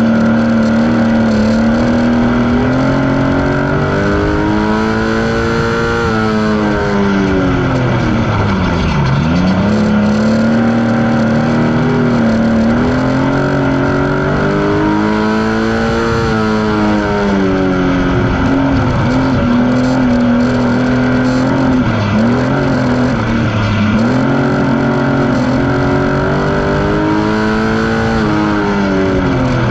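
Stock car engine heard from inside the cockpit while racing on a dirt oval. The revs climb for several seconds along the straights, then fall away sharply for the turns, over and over, with two long climbs and several shorter lifts.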